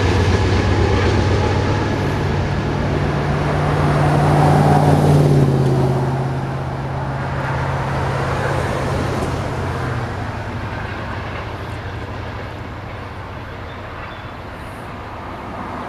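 Loaded BNSF coal train rolling away and fading, its steady low rumble dropping out about ten seconds in, leaving road traffic noise.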